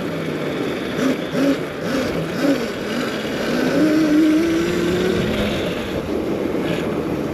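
Electric dirt bike riding through snow, its motor whine rising in pitch about halfway through as it speeds up, over steady wind rush on the microphone.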